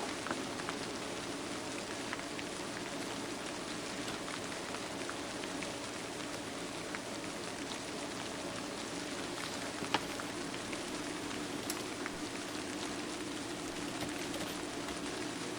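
Steady rain falling, an even patter with scattered small ticks and one sharper tick about ten seconds in.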